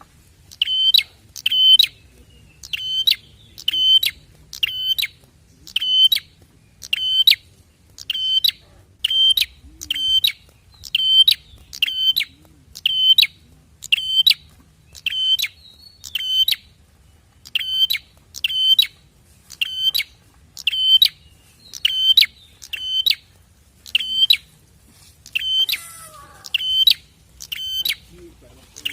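A prenjak (prinia) calling: one short, sharp chirp repeated about once a second at an even, steady pace, over a faint low hum.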